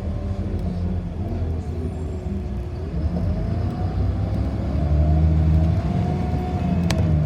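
City bus driving, heard from inside: a low rumble with a drive whine that drops in pitch, then climbs again as the bus speeds up. A few light rattling ticks near the end.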